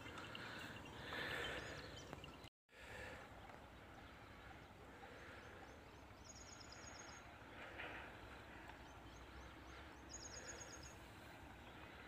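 Faint open-air background hiss with a small bird's high, rapid chirping, a quick run of notes heard twice in the second half. The sound cuts out completely for a moment about two and a half seconds in.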